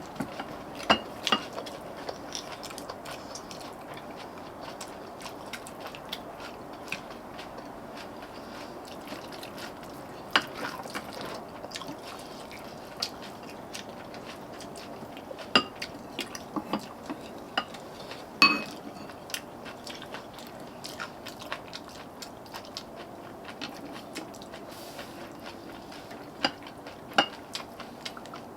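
Eating sounds: spoons and chopsticks clicking against bowls and plates now and then, with chewing, over a steady background hiss. The sharpest clink comes about eighteen seconds in.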